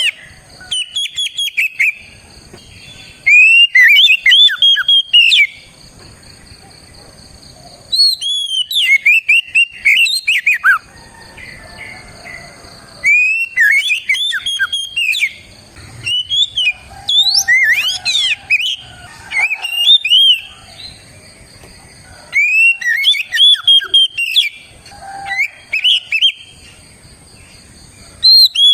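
Oriental magpie-robin (kacer) in full song: loud bouts of rapid, varied whistled phrases, each a second to a few seconds long, repeated with short pauses.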